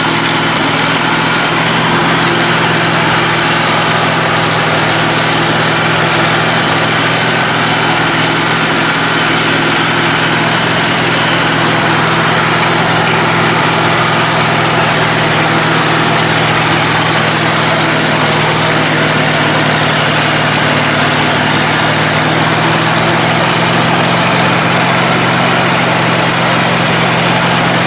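Lifted riding mower's engine running steadily, loud and close, on a machine that is not running right; the owner suspects a blown carburetor jet.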